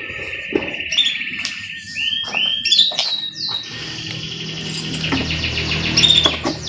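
Domestic canary singing: a sustained high trill, then a run of down-sweeping whistled notes about two seconds in, then a fast rattling trill of repeated notes from about four seconds in.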